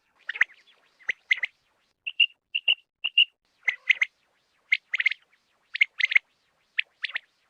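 Common quail calling: short, sharp notes repeated in quick clusters of two or three, with brief gaps between clusters.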